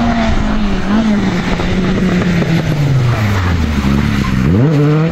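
Rally car engine at speed, its note falling steadily for about four seconds, then revving sharply up again near the end.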